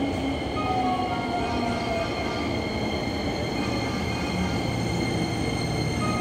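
Hankyu 9300 series electric train pulling into an underground platform and slowing. Its motor whine falls in pitch over the rumble of the wheels.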